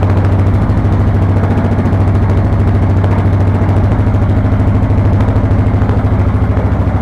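Yamaha Grizzly 550 ATV's single-cylinder four-stroke engine idling steadily, its exhaust note coming through the spark-arrestor muffler tip.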